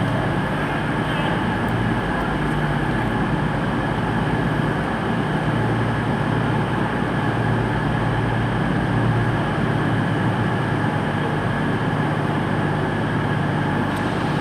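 Class 221 Super Voyager diesel-electric trains' underfloor diesel engines running with a steady low drone as a unit draws slowly into the platform.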